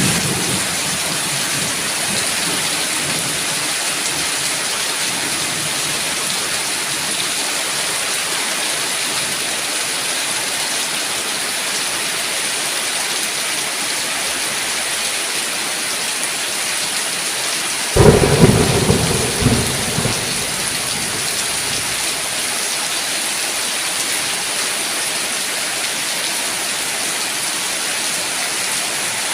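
Steady heavy rain hissing, with a sudden clap of thunder about eighteen seconds in that rumbles and fades over two or three seconds.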